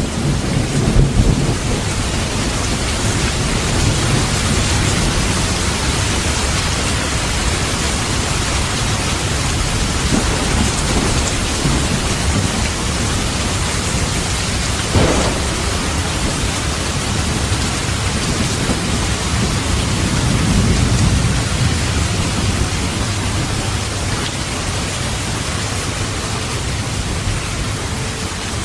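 Steady heavy rain with thunder rolling in low rumbles, and one sharp thunder crack about halfway through.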